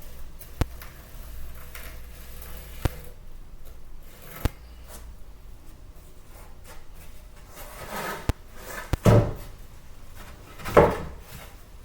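Hard building materials being handled on a floor: scattered sharp clicks and knocks, then two louder scraping knocks near the end.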